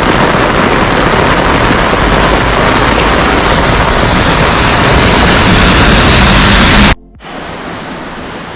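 Heavy monsoon downpour: a loud, steady hiss of rain. About seven seconds in it cuts off abruptly to a much quieter hiss.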